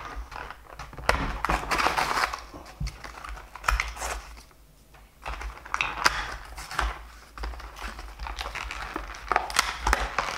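Plastic blister packaging and card backing of a diecast toy car being pried and torn open: irregular crinkling with many sharp clicks, easing off briefly about halfway through. The package is hard to get open.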